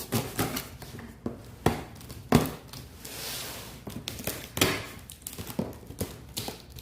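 A knife slitting the packing tape and cardboard of a box: a string of sharp knocks and scrapes, with a longer tearing rasp about three seconds in. The knife is blunt and has to work at it.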